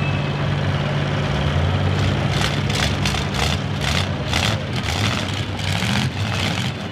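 Demolition derby cars' engines idling with a steady low rumble, with a run of short hissing bursts starting about two seconds in.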